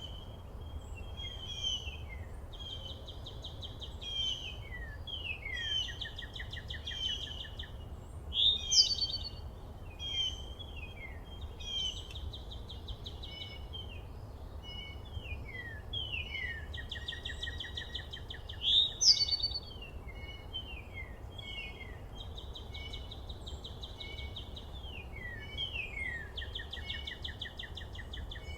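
Several songbirds calling and singing over one another, with repeated quick downward-slurred notes and buzzy trills, over a steady low background rumble.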